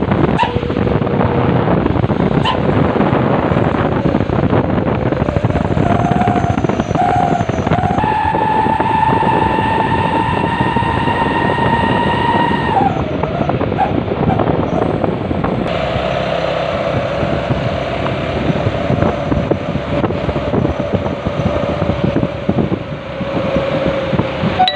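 Mitsubishi Canter truck's diesel engine running through a 'serigala' (wolf) modified exhaust, giving a rapid barking 'guk guk guk' note. A steady howling tone sits over it from about 8 s to 13 s, and a lower one sets in about 16 s in.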